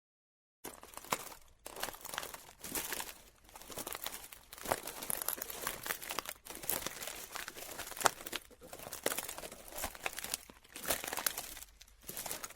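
Irregular crinkling and rustling with many sharp crackles scattered through it, starting about half a second in.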